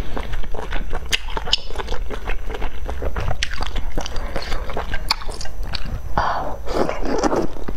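Close-miked chewing and wet mouth sounds, with many small sharp clicks. About six seconds in comes a louder, longer wet bite into a piece of food held in chopsticks.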